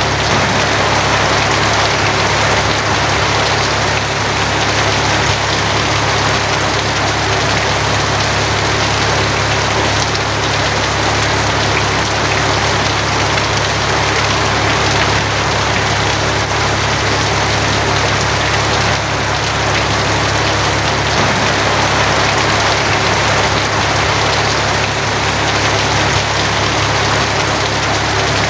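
Steady heavy rain drumming on a tin roof, an even hiss with no letup, over a constant low hum.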